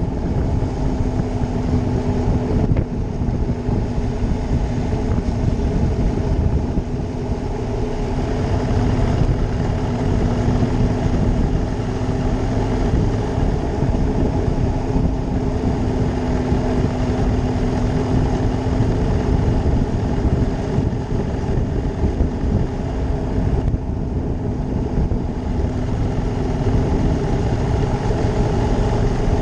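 Ducati Monster 620's air-cooled L-twin engine running at a steady cruise, one even engine note holding over a dense low rumble with no change in revs.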